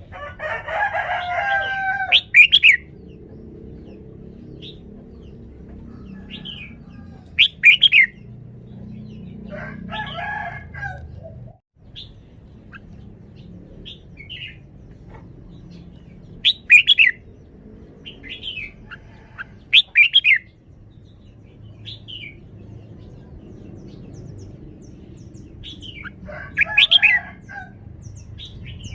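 Red-whiskered bulbul singing short, bright, loud phrases with gaps of several seconds between them, about eight times, with longer warbled phrases at the start, about ten seconds in and near the end.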